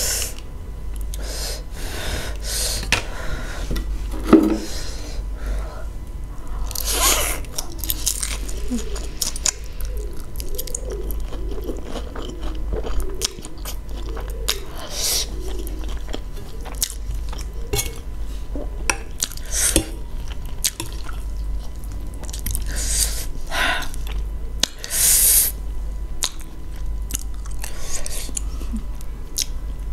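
A person chewing mouthfuls of cheesy spicy Buldak noodles, with a few brief louder eating noises over a steady low hum.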